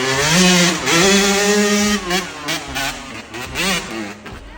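Dirt bike engine revved in a rising-and-falling pattern, held high for about two seconds. It then gives a string of shorter blips that die away near the end.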